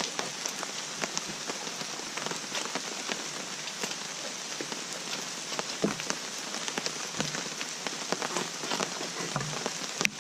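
Steady rain falling, with many separate drop hits ticking through a constant hiss.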